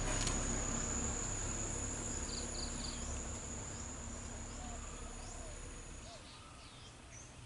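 Insect trilling on one steady high note, which stops about six seconds in, over a low engine rumble that fades away. A few short chirps are heard.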